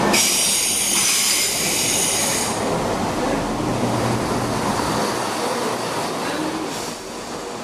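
Class 170 Turbostar diesel multiple unit braking into a station: a high-pitched wheel and brake squeal for the first two and a half seconds, then the steady rumble of the train running slowly past.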